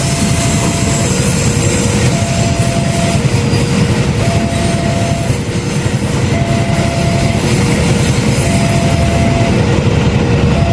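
Passenger train hauled by a CC 206 diesel locomotive running past over a level crossing, a continuous heavy rumble of wheels on rail. Over it the level crossing warning alarm sounds, alternating between two tones, switching about once a second.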